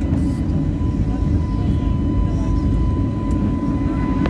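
Jet airliner before take-off: a steady low rumble with a thin, steady high whine running over it.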